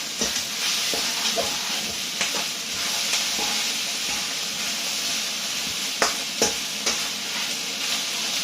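Chicken, onions and bell peppers sizzling steadily in a hot pan as they are stir-fried, with a few sharp clicks of the utensil knocking the pan, two of them close together about six seconds in.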